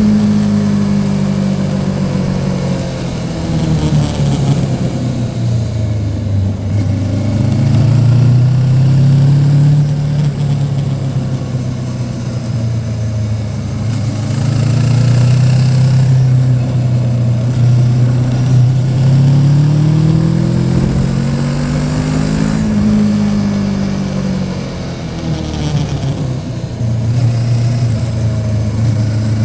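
Yamaha Tracer 700's parallel-twin engine running under way, its pitch climbing and dropping again and again as the throttle is opened and closed.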